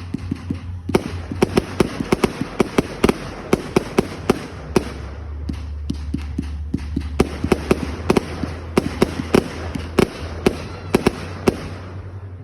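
Fireworks going off in a rapid, irregular volley of bangs and crackling pops, several a second, over a steady low rumble.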